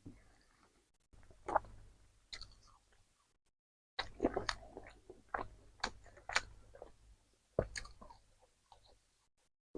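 A person chewing and biting into a KFC meal, with irregular crisp crunches and sharp mouth clicks. The clicks cluster around the middle and thin out near the end.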